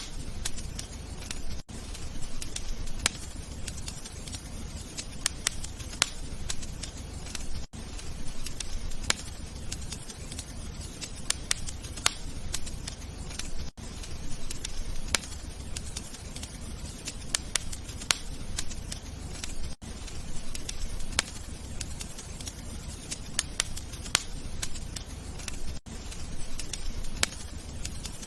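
Wood fire crackling: frequent sharp pops and snaps over a low steady rumble, with a brief gap about every six seconds.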